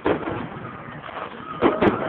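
Aerial fireworks bursting: a sharp bang at the start, then two more sharp bangs in quick succession near the end, with a faint thin whistle underneath.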